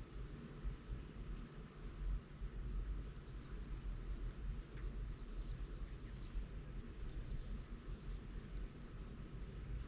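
Bonfire of dried bamboo and brush burning: a steady low rumble with a few faint crackles, one sharper about seven seconds in.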